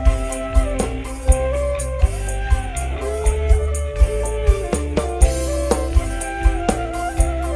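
Instrumental live band music played loud through a large PA sound system: a heavy bass, a steady drum beat with tambourine-like jingles, and a sustained melody line that slides between notes.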